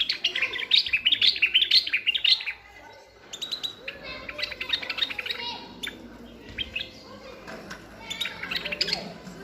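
European goldfinch and common bulbul singing: rapid twittering chirps and whistles in bursts with short pauses. The loudest burst comes in the first two and a half seconds.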